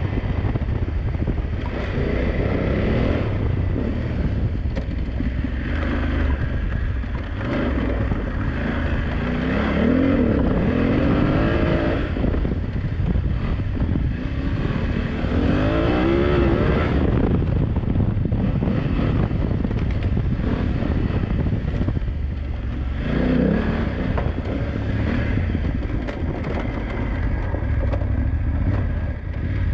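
BMW F900GS parallel-twin engine being ridden hard off-road, revving up and falling back again and again as the throttle is opened and closed through the corners, with several clear rising rev sweeps.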